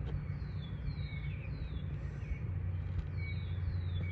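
A bird singing a repeated series of short, high, downslurred notes, about two a second, over a steady low rumble.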